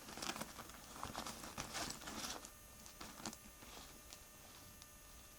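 Soft irregular rustling and light tapping for the first two and a half seconds, then one sharper click, then only faint room hum.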